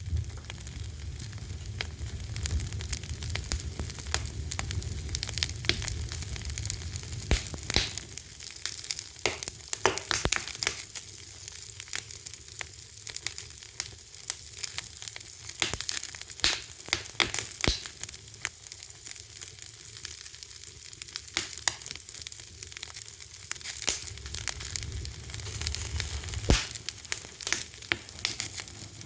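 Wood fire crackling steadily, with irregular sharp pops and snaps over a soft hiss and a low rumble of flame.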